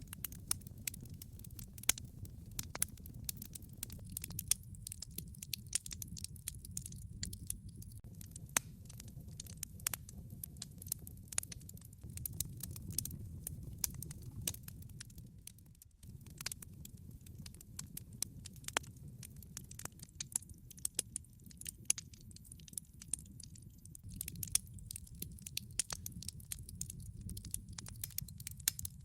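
Wood fire burning in a fireplace: irregular crackles and sharp pops from the logs over a steady low rumble of the flames.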